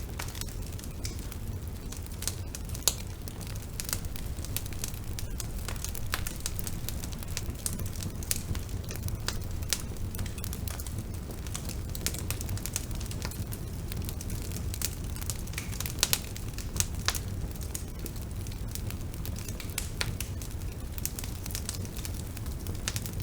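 Bonfire burning with a steady low rumble of flame and irregular sharp crackles and pops of burning wood, a few louder snaps scattered through.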